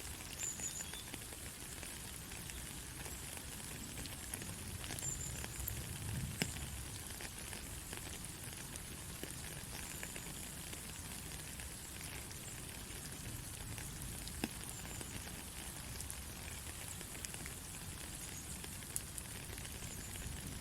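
Soft, steady rain: an even hiss with scattered sharp ticks of single drops landing.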